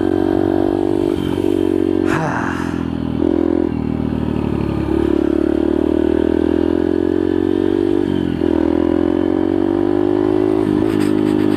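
Yamaha TTR125's single-cylinder four-stroke engine running under throttle while ridden, its note dipping and climbing again several times as the throttle is rolled off and back on. A brief clatter sounds about two seconds in.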